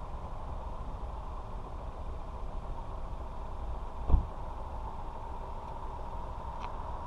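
Ford Fiesta 1.0's engine idling steadily, with a single thump about four seconds in.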